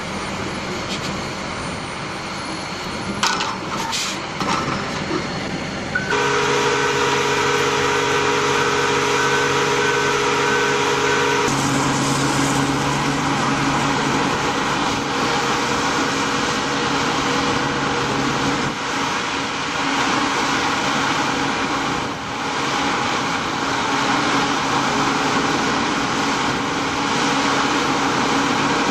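Heavy diesel earthmoving machinery running steadily, its engine note changing abruptly a couple of times, with a few sharp knocks a few seconds in.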